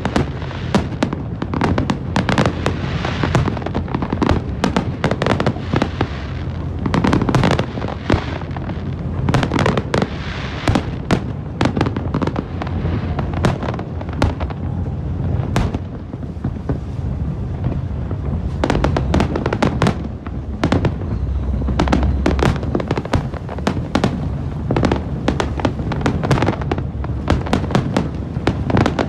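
Fireworks display: a continuous barrage of sharp bangs and crackling, many reports a second, over a low rumble.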